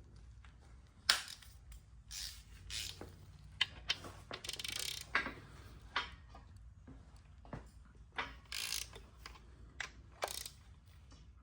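Hand socket ratchet clicking in short, irregular runs, with metal tool clinks, as engine parts are unbolted for disassembly.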